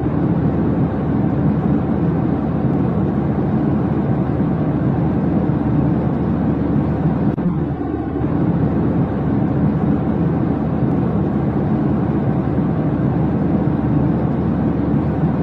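Steady, even low rumble, like engine noise, with a slight dip about every eight and a half seconds where a looped recording repeats.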